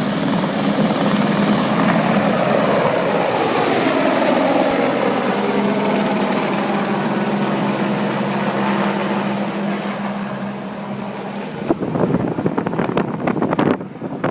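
Helicopter turbine and rotor noise, a loud steady drone. About twelve seconds in it gives way to rough, gusty buffeting of wind on the microphone.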